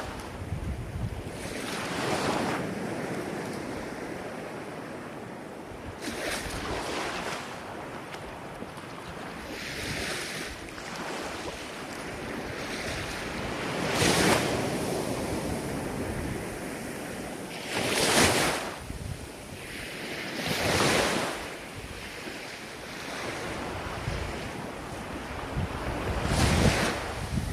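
Ocean waves breaking and washing ashore, one surge every few seconds over a steady hiss of surf, the loudest breaks about halfway through and near the end. Wind rumbles on the microphone.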